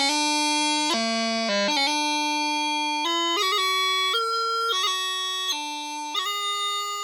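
A bagpipe chanter playing a lively march melody: bright, reedy held notes broken up by quick grace-note flourishes, with no drone underneath. It is likely the synthesized pipe playback of the Gracenote notation software.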